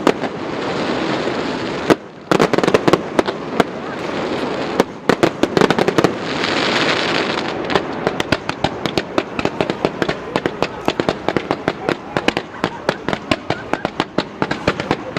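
Fireworks going off in a dense run of rapid, sharp crackling pops, with three stretches of loud hissing in the first half.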